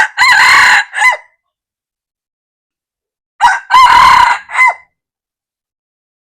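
Red junglefowl rooster crowing twice, about three seconds apart; each crow is short and falls into three parts, ending in a clipped final note.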